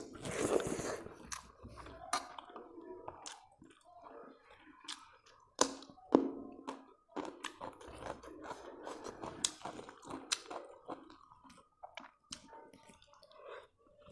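Close-up chewing and mouth sounds of a person eating rice by hand, with many irregular sharp smacks and clicks; the loudest come about five and six seconds in.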